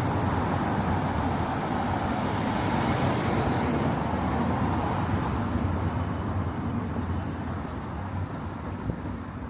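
Road traffic: a motor vehicle running close by with a steady rumble that slowly grows fainter as it moves away.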